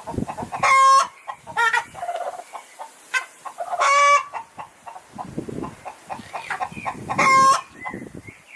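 Chickens clucking, with three loud, drawn-out calls about three seconds apart, one about a second in, one near four seconds and one past seven seconds, and short clucks between them.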